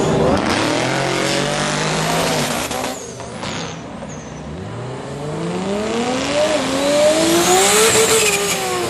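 Lexus IS300 drag car's engine held at steady revs over a heavy noise for about two and a half seconds, then dropping away. Its pitch then climbs steadily for several seconds as the car accelerates and dips near the end.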